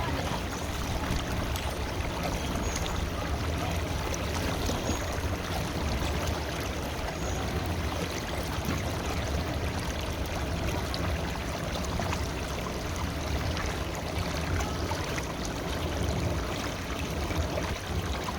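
River water flowing steadily, an even rushing and gurgling.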